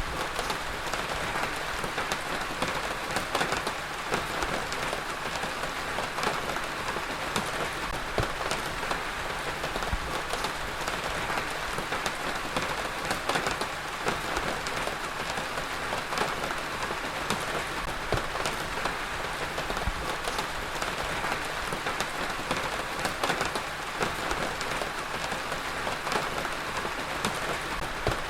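Heavy rain falling steadily on a hard surface, a dense, even hiss dotted with many individual drop impacts.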